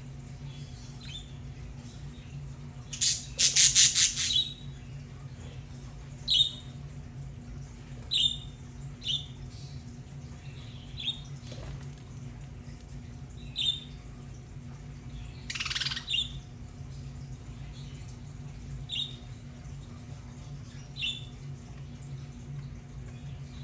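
Budgerigars calling: scattered short chirps, with a louder harsh squawk about three seconds in and another about fifteen seconds in, over a steady low hum.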